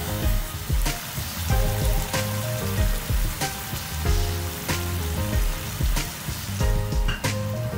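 Beef slices and onions sizzling in a frying pan of sauce, a steady hiss, under background music with a regular beat.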